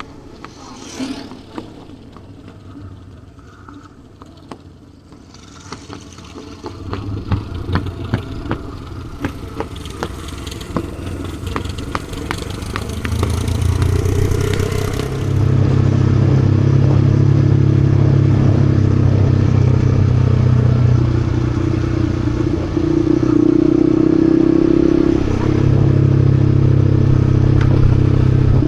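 Yamaha XSR155's single-cylinder engine running, faint at first among scattered clicks and clatter, then building and running loud and steady from about halfway, its pitch shifting slightly a few times near the end.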